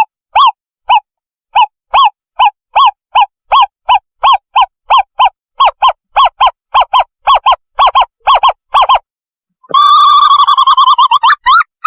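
Recorded call of an owlet, played as a lure to draw in birds: a long run of short, clear hoots, two to three a second and quickening. After a short gap about ten seconds in, a fast bubbling trill of about two seconds follows.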